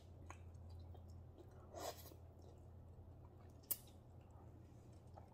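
Faint close-up eating of spicy noodles: quiet chewing with a soft short mouth sound about two seconds in and one sharp click a little later, over a faint low hum.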